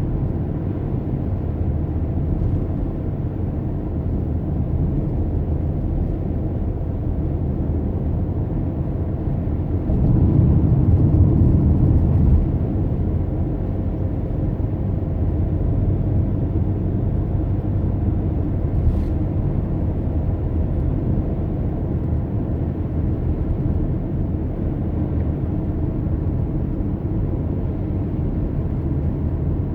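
A car driving along the road: a steady low rumble of tyres and engine. The rumble grows louder for about two seconds, roughly ten seconds in.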